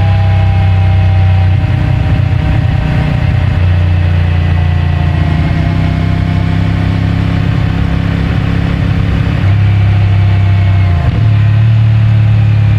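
CFMOTO 450MT's parallel-twin engine with stock exhaust, running under way, its pitch easing slowly downward for most of the stretch. About eleven seconds in the note dips briefly, then comes back louder.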